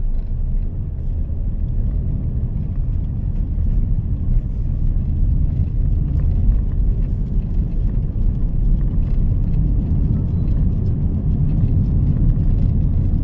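Mahindra XUV 3XO's 1.2-litre three-cylinder turbo petrol engine and road noise while driving: a steady low rumble.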